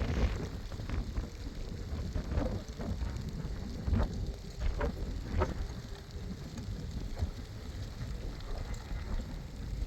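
Rain falling steadily, with a low rumble of wind and scattered sharp knocks and clatters.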